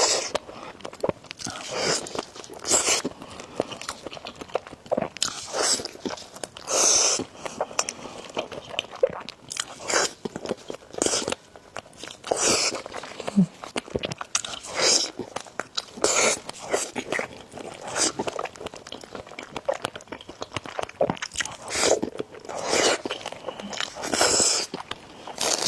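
A person eating noodles and eggs: bites and chewing in an irregular run of short bursts.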